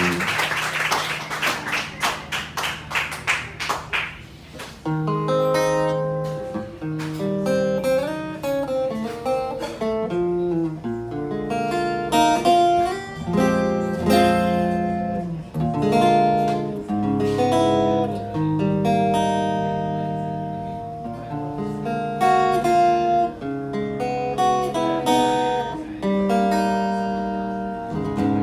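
Instrumental acoustic guitar intro: quick strummed chords for about the first four seconds, then picked notes and chords moving in a melody over a low bass line.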